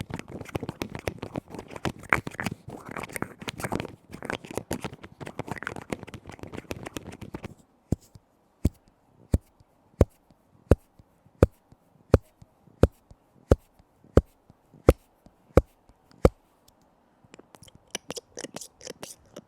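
A lid being tapped and scratched rapidly in dense clusters. Then come about a dozen single, evenly spaced taps, a little faster than one a second. Light, quick scratching follows near the end.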